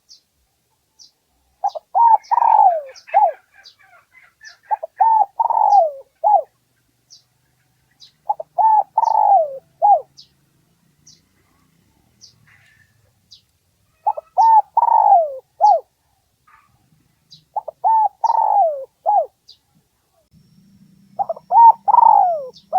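Spotted dove cooing, the decoy bird's territorial call used to draw wild males in to fight: six short phrases of several low coos each, a few seconds apart. A faint short high chirp repeats steadily about once a second underneath.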